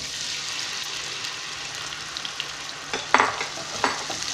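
Crushed tomatoes and garlic sizzling steadily in hot oil in a frying pan, stirred with a wooden spoon that scrapes and knocks against the pan a few times about three seconds in.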